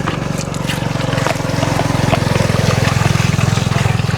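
A small engine running steadily with a fast, even throb, with light splashing and clicks of water over it.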